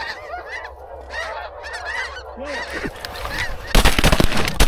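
Geese honking repeatedly as a flock comes in, then about three and a half seconds in a sudden rapid volley of shotgun blasts from several hunters firing at once.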